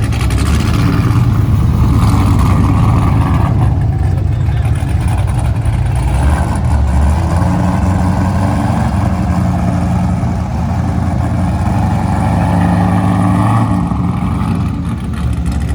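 A car engine running loud and close, steady with slight changes in pitch.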